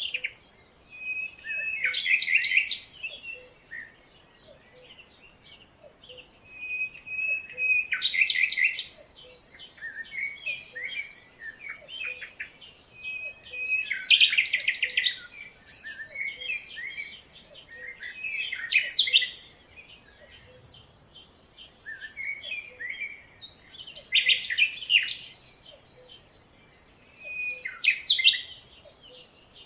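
Jungle birds singing: loud bursts of quick chirps and trills every five or six seconds, with softer calls in between.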